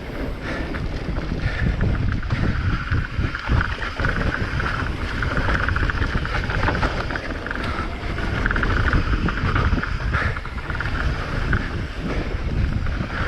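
Mountain bike descending a rough trail at speed, with wind buffeting the camera's microphone over the continuous rumble and rattle of the bike.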